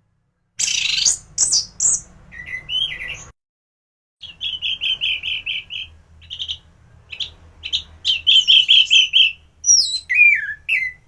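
Orange-headed thrush (anis merah) singing in varied phrases: slurred whistles gliding up and down, and fast runs of repeated chirps about six a second. The song breaks off for about a second roughly a third of the way through.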